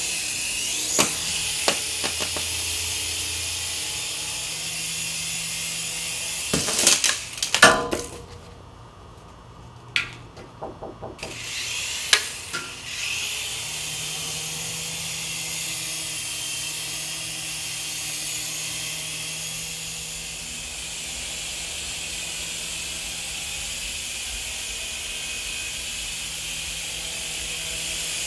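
Helizone FireBird 3-channel toy RC helicopter's electric motors and rotors whirring steadily. Several sharp knocks come about 7 to 8 seconds in, then the whir stops for a few seconds among light clicks, and it spins up again about 13 seconds in, running steady to the end.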